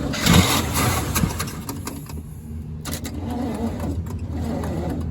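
Chevrolet 350 V8 in a late-1970s Chevy 3/4-ton pickup cranking and catching a fraction of a second in, with a loud burst as it fires, then running on steadily. This is the first start of the long-abandoned engine on a freshly cleaned Edelbrock carburetor.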